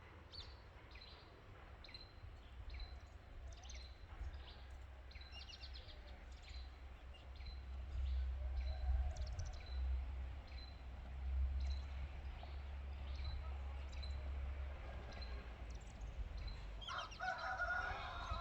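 Chickens calling, with a short high chirp repeating about once a second and a steady low rumble underneath; a louder call comes near the end.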